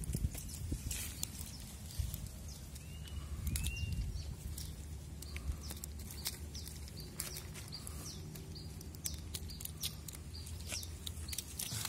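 Outdoor ambience: a low steady rumble with scattered light clicks and taps throughout. A small bird gives two short chirps about three seconds in.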